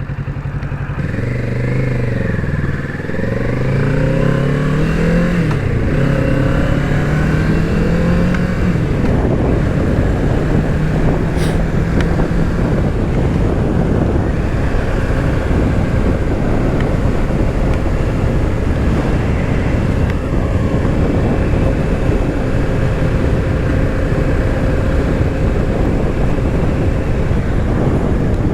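Kawasaki Z650 parallel-twin engine accelerating through the gears, its pitch climbing and then dropping back at each upshift. From about nine seconds in, a steady rush of wind noise on the helmet microphone at cruising speed covers most of the engine.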